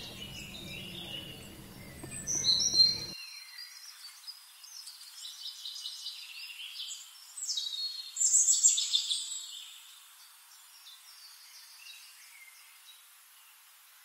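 Birds chirping and calling: scattered bursts of high chirps and short trills, loudest about eight seconds in, fading toward the end.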